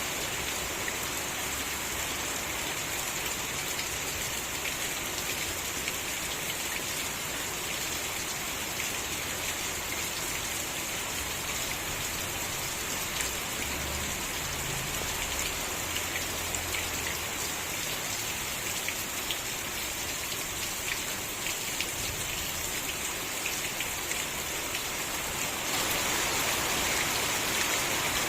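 Steady rain falling, a dense patter of many small drops. It gets slightly louder near the end.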